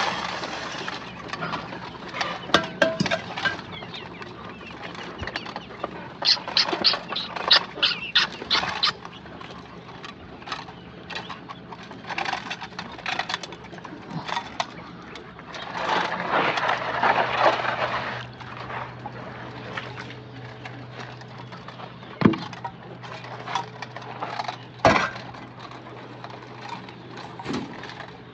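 Chickens at feed: scattered sharp taps and clicks, with a quick run of them several seconds in and single louder clicks later, over a steady low hum.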